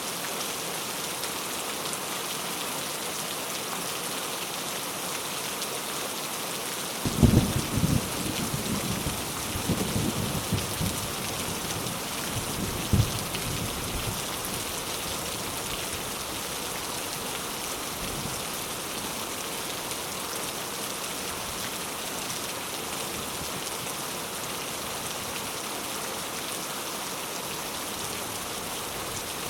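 Steady rain falling. A low rumble of thunder starts about a quarter of the way in and rolls on for several seconds, with a short sharp clap near the middle.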